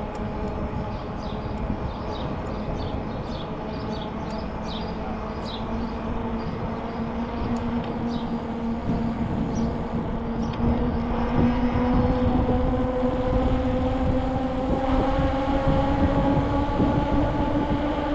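A steady droning hum with several pitches that slowly rises and grows louder through the second half, over rough low rumbling noise. A bird chirps in a quick repeated series during the first few seconds.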